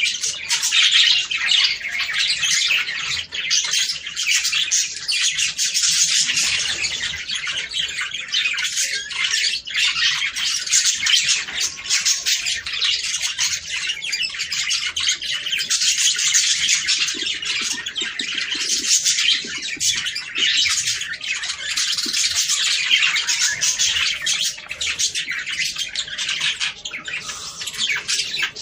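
A flock of budgerigars chattering, warbling and squawking continuously, many birds calling over one another.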